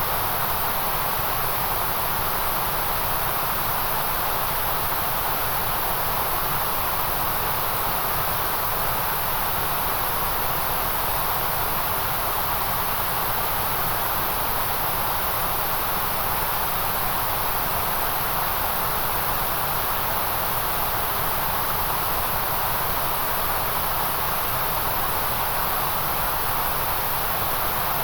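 Steady, unchanging synthetic noise, a hiss with a bright high band and a fuller band in the middle range, with no pauses or changes.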